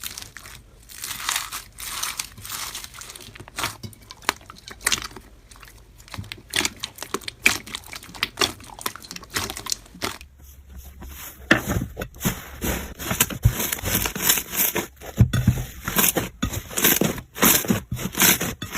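Slime being squeezed and pressed by hand, giving a string of irregular crackles and crunches. About ten seconds in the texture changes to a louder, denser run of crackles and pops.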